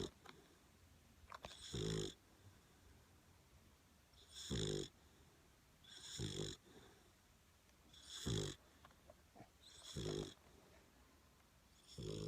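Two-and-a-half-month-old puppy snoring in her sleep: six snores, one about every two seconds, each a short low rasp with a hiss above it.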